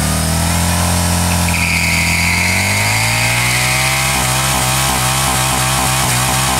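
Motorcycle engine revved up and held at high revs: the note holds, climbs for a second or two, then stays steady and high. A high squeal sounds over it for a couple of seconds in the first half.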